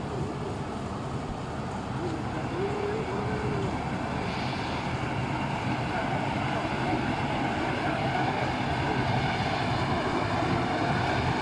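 A vehicle engine running steadily under load, with a dense mechanical rumble that grows slowly louder.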